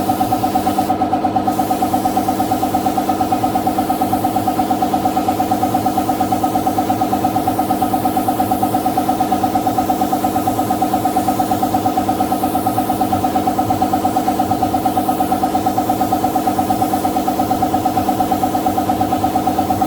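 An engine or motor running steadily, with a fast, even throb of about five beats a second.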